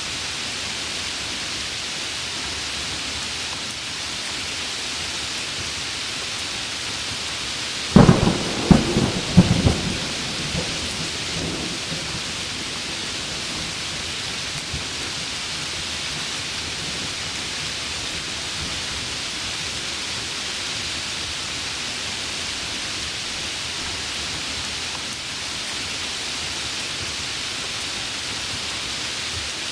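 Heavy rain falling steadily, with a sudden close thunderclap about eight seconds in: a crackle of several sharp cracks over about two seconds, then a fading rumble.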